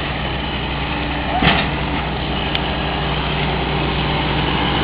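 Truck engine idling steadily, with one brief sharp sound about a second and a half in.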